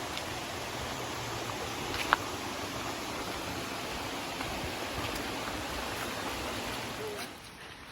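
Steady rushing of flowing stream water, with one short click about two seconds in; the rush drops away sharply near the end.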